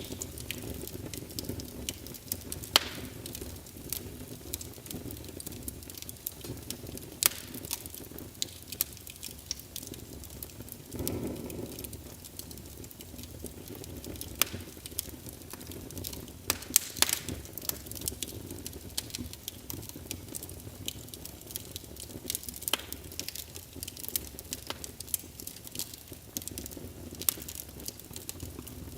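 Logs burning in a fireplace: a steady low rumble of the flames with frequent sharp crackles and pops, and a brief swell of noise about eleven seconds in.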